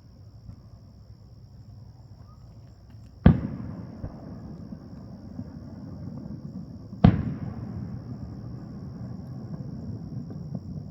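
Two fireworks shells bursting overhead, a few seconds apart, each a sharp boom followed by a long rumbling echo.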